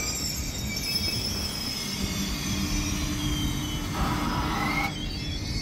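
PKP Intercity ED250 Pendolino electric train rolling along the platform with a steady rumble and thin squealing tones from its wheels. About four seconds in, a short squeal rises in pitch.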